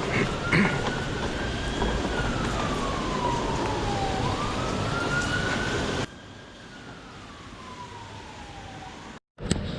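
An emergency vehicle siren wailing, its pitch rising and falling slowly about once every four seconds, over a steady wash of street noise. About six seconds in, everything drops suddenly to a lower level and the wail carries on fainter.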